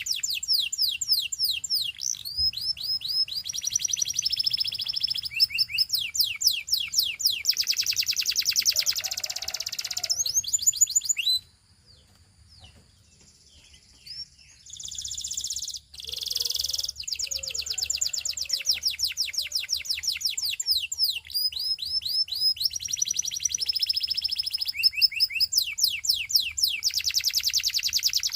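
Belgian singing canary singing: long, high-pitched runs of rapid repeated notes and quick falling sweeps, breaking off for about three seconds near the middle before the song resumes.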